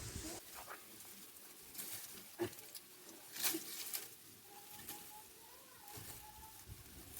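Scattered rustles and crunches of people moving and handling things in dry leaves and brush, with a faint thin whistling tone for a couple of seconds past the middle.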